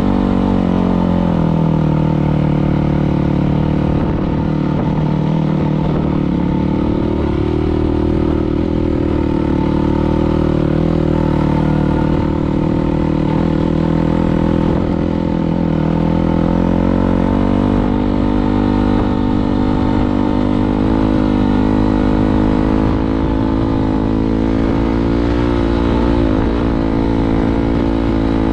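Dirt bike engine running, its pitch falling and rising several times with the throttle.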